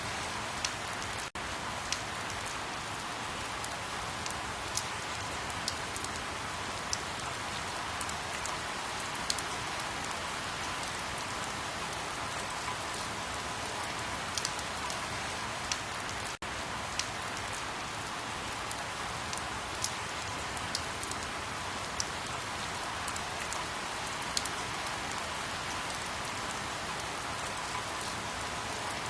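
Steady rain, a constant hiss with scattered sharper drops ticking on a surface. The sound cuts out for an instant twice, about a second in and about halfway through.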